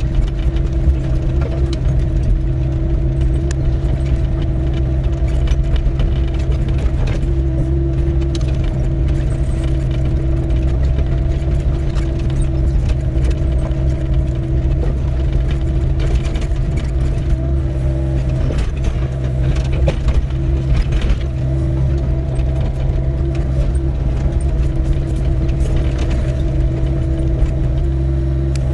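Doosan DX55W wheeled excavator's diesel engine running steadily under work, with scattered clicks and knocks throughout.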